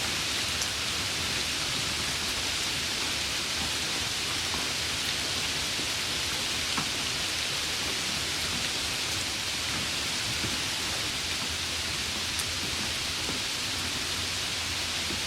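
Steady rain falling, an even hiss with a few faint separate drop ticks.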